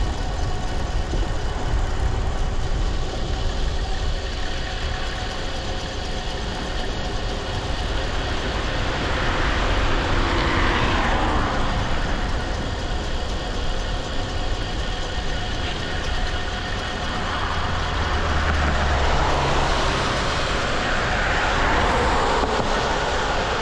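Wind rumbling on the microphone of a moving e-bike, with a steady faint whine. A motor vehicle passes, the noise swelling and fading about ten seconds in, and again during the last few seconds.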